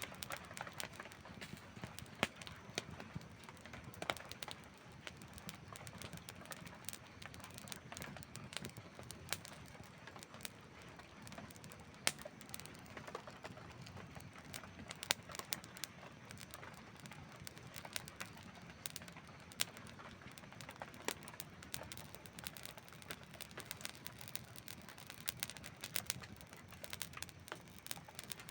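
Campfire burning: frequent irregular crackles and snaps over a low steady hiss, with a few sharper, louder pops.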